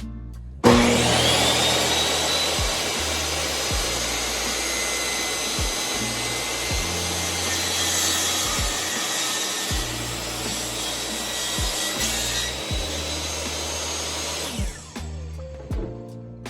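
Table saw switching on, spinning up to a steady whine and cutting through a wood board for about fourteen seconds, then winding down with a falling pitch near the end. Background music plays underneath.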